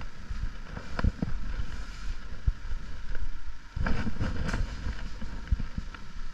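Wind rumbling and buffeting on an action camera's microphone during a motorcycle ride, with irregular low thumps.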